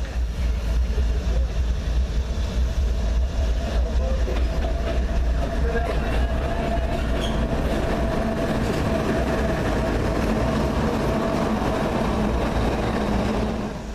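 A train rolling past close by: a steady heavy rumble with light clicking and a faint held squeal, which drops away near the end.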